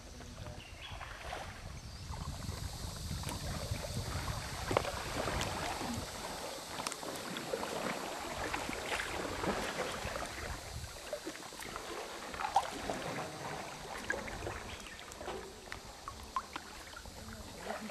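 Water splashing and lapping around a sea canoe as it is paddled, with scattered small knocks and splashes and a low rumble of wind on the microphone.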